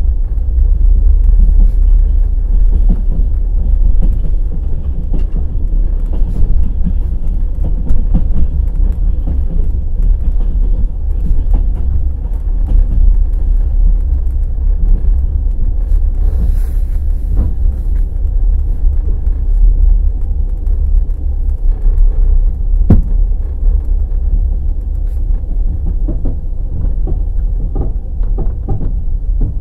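Wheels of a passenger express train knocking over the rail joints, with a heavy steady rumble and irregular sharp clicks, one stronger knock about 23 seconds in.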